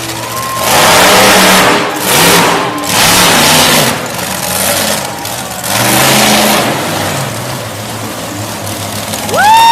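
Monster truck engine revving hard in four loud bursts, dropping back to a lower running note between them. Right at the end a high tone sweeps up and holds, like a siren or horn.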